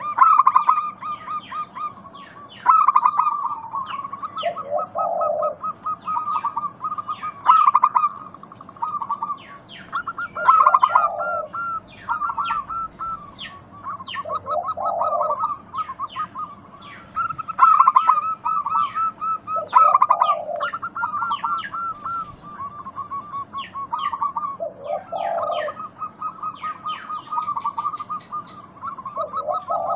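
Zebra doves (perkutut) cooing: rapid runs of short staccato notes, several birds overlapping, with a lower falling coo about every five seconds. This is a lure song meant to get other zebra doves to answer.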